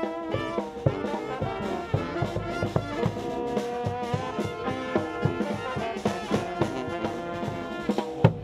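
Marine Corps brass band playing a lively tune, horn lines over a steady drum beat, finishing on one loud accented hit near the end, after which the music stops.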